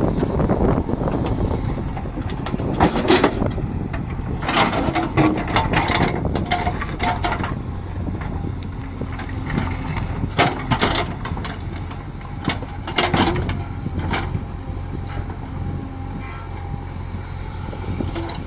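JCB backhoe loader's diesel engine running steadily, with clattering and knocks several times as stone is loaded into a tractor's tipper trailer.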